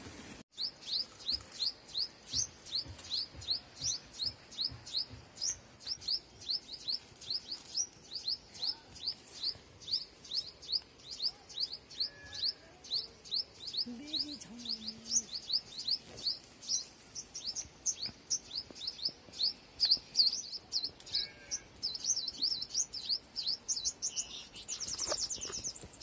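A small bird chirping over and over, short high chirps at about three a second, breaking into a quicker run of notes near the end.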